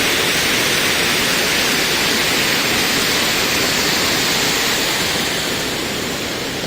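Water pouring over a low river dam, a steady loud rush that eases slightly near the end.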